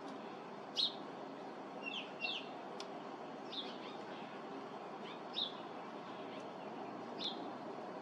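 Short, high bird chirps, about six of them spaced irregularly over several seconds, against a steady background hiss.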